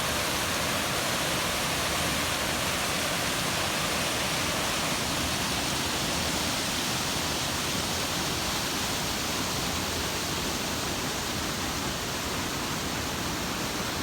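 Steady rushing of water from a stream or waterfall: an even, full hiss with no breaks.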